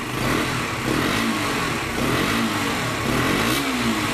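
KTM RC 125's single-cylinder four-stroke engine being lightly revved at standstill through its underbelly exhaust: several short throttle blips, each rising and falling back toward idle.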